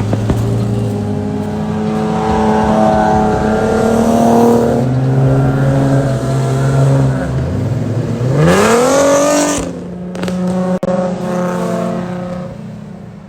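Car engine running hard, then revving up sharply in a rising sweep about eight seconds in and dropping off suddenly before settling again.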